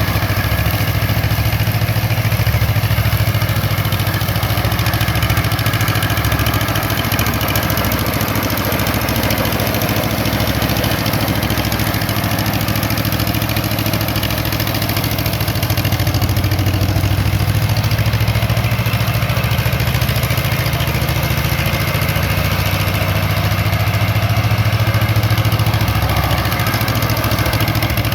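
18 hp Wisconsin TJD engine of a 1963 Yazoo YR60 mower running steadily while mowing grass.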